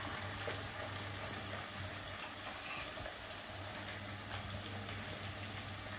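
Diced potatoes frying in ghee in a steel kadhai on a gas burner, a steady sizzle, over a steady low hum.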